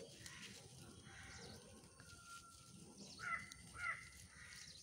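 A bird calls twice in quick succession, two short calls about half a second apart a little past three seconds in, over a faint background.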